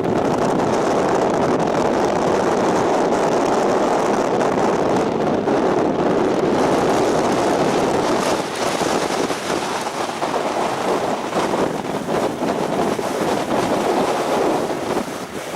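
Strong mountain wind buffeting the microphone: a loud, steady rush that turns gustier and more uneven about halfway through.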